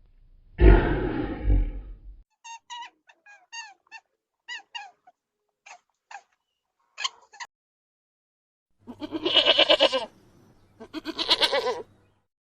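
A series of separate animal calls: a deep roar in the first two seconds, then a run of short, high chirps, then two loud bleats with a quavering pulse, about nine and eleven seconds in.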